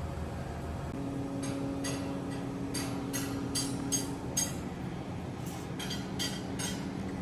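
A string of sharp metallic clinks and taps, about a dozen spread irregularly over several seconds, each ringing briefly, over a steady industrial hum.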